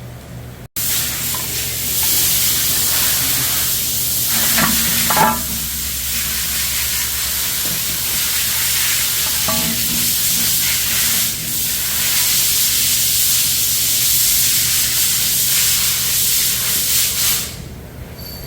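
A loud, steady hiss that starts suddenly about a second in and cuts off abruptly near the end, with a couple of brief squeaks partway through.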